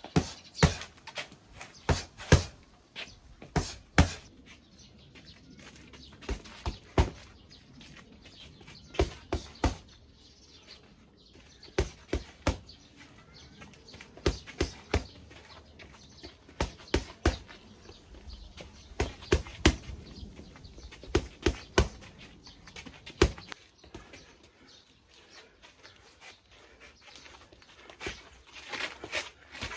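Irregular sharp knocks and clicks, sometimes two or three close together, with short pauses between the groups.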